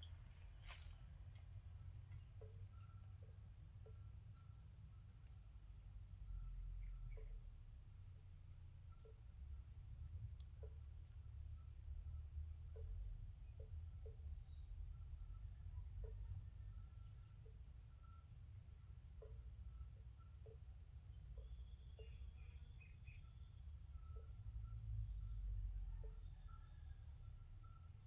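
Steady, high-pitched drone of insects such as crickets or cicadas, with scattered short soft chirps and a low rumble underneath.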